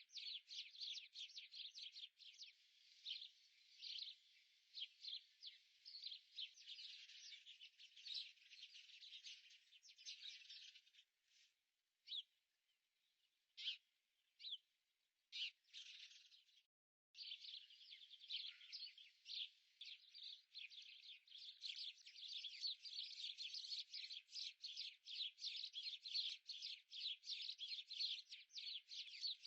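Small songbirds chirping in quick, overlapping calls. The calls thin to a few scattered chirps about midway, cut out completely for a moment, then come back as dense chirping.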